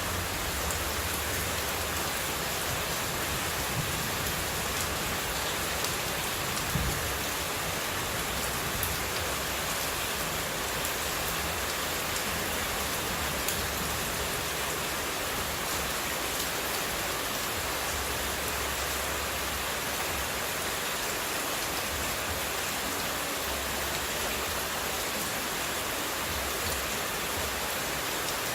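Steady, unbroken rush of running water played as white noise, even across the whole sound with faint scattered drop-like ticks.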